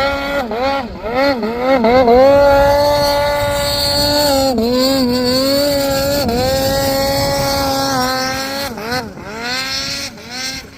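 Snowmobile engine revving: several quick throttle blips in a row, then held at high revs for about six seconds with two short dips, then falling away into more blips near the end.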